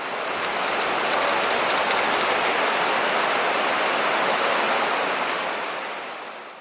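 Rushing water, a steady dense rush that fades out over the last second or so.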